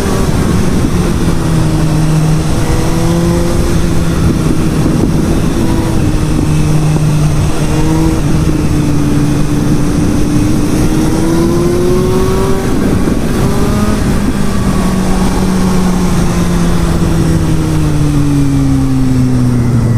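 Suzuki GSR750's inline-four engine running under way, with rushing wind noise throughout. Its pitch holds fairly level, rises briefly around two-thirds of the way in, then falls steadily near the end as the bike slows.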